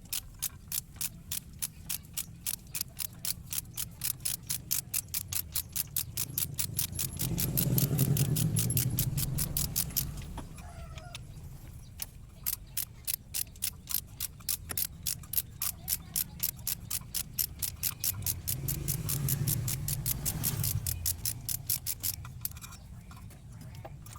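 Ratchet wrench clicking steadily, about four clicks a second, while turning a spark plug socket, with two short pauses. A low rumble swells up twice, about eight and nineteen seconds in.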